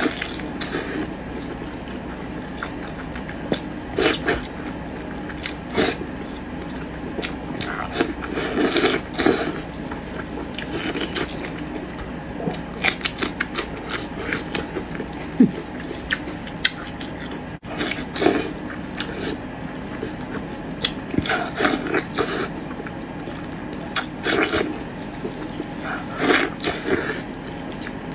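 Close-up wet chewing and slurping of spicy braised offal in chili sauce: irregular clusters of sticky smacks, squelches and lip sounds over a steady low hum.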